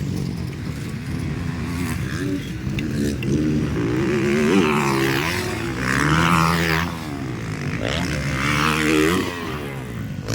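Several motocross bike engines revving hard, their pitch rising and falling as the riders accelerate and shift, with more than one engine sounding at once.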